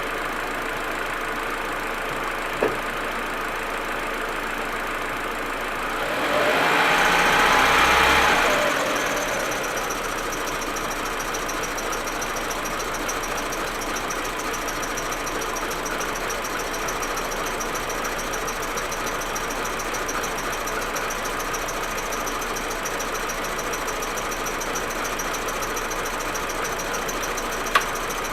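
Audi A4 1.8T turbocharged four-cylinder engine idling roughly with misfires, a cold-engine fault that clears once the engine is warm. A louder swell of noise comes about six seconds in and fades over three seconds, and two sharp clicks are heard, one near the start and one near the end.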